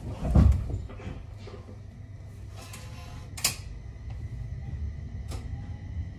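Inside an electric local train setting off from a station: a heavy thump about half a second in, then a low steady rumble with a few sharp clicks as the train begins to move.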